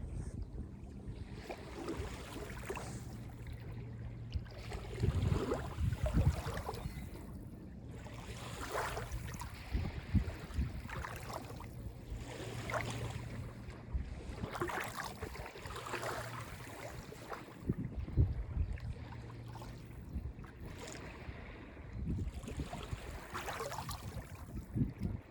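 Small calm lake waves lapping and washing onto the beach, one swell every two to three seconds, with a steady low hum underneath.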